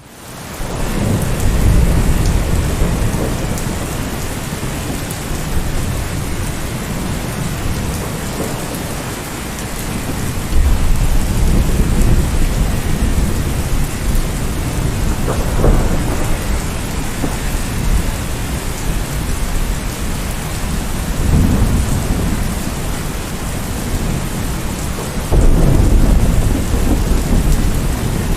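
Heavy rain falling steadily, fading in at the start, with low rumbles of thunder swelling up several times.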